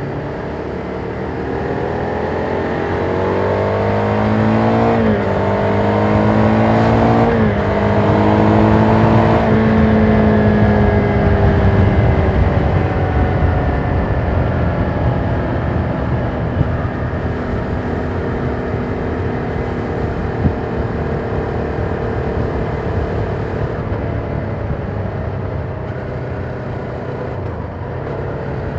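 Ducati Monster 797's air-cooled V-twin through its stock exhaust, accelerating hard with two quick upshifts about five and seven and a half seconds in, then rolling off as the revs fall and settling into a steady cruise. Wind rush runs underneath.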